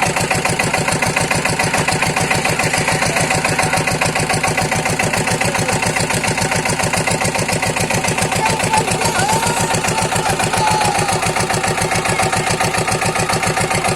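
Diesel pump-set engine running steadily, drawing water out of a flooded drain, with an even, rapid thudding beat.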